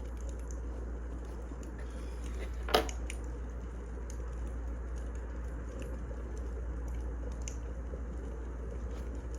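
Wood fire crackling: scattered small pops and one loud snap a little under three seconds in, over a steady low background noise.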